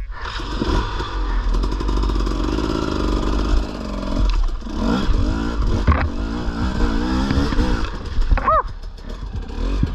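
Dirt bike engine revving hard on a hill climb, its pitch rising and falling repeatedly as the throttle is worked.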